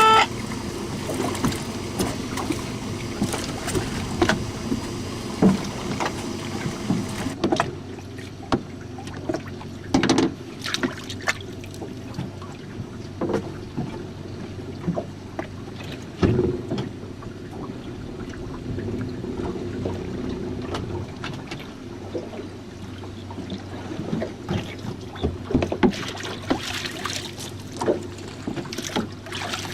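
Small aluminium jon boat on open water: a steady low rumble with water splashing and many scattered short knocks against the hull.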